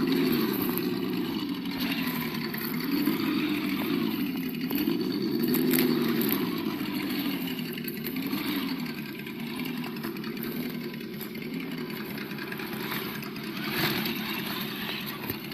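An RC crawler's sound module plays a simulated engine through its small speaker, the engine note rising and falling again and again as the throttle is worked. A couple of sharp knocks sound about six seconds in and near the end.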